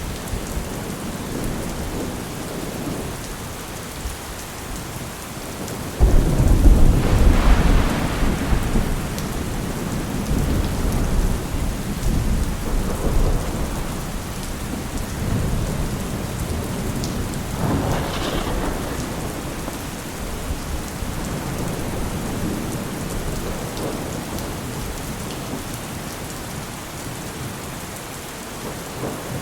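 Steady heavy rain with thunder: a sudden crack about six seconds in that rumbles on for a few seconds, and a weaker roll of thunder around the middle.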